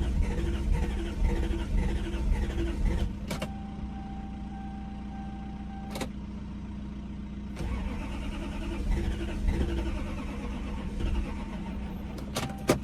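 Toyota 1UZ-FE V8 being cranked over by its starter motor in two attempts, with a steady rhythmic churn each time. The engine does not catch: it cranks but will not start, for lack of spark. Between the two attempts there is a click and a few seconds of a steady beep, with clicks near the end.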